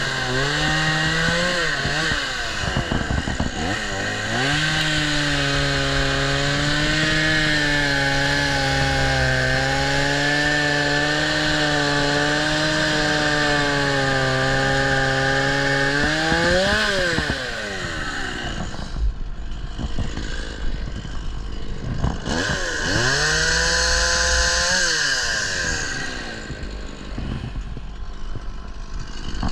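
Gas chainsaw running at full throttle, cutting through a fallen tree, its engine note rising and holding steady. About 17 s in it drops to idle, revs again briefly a few seconds later, then settles back to idle.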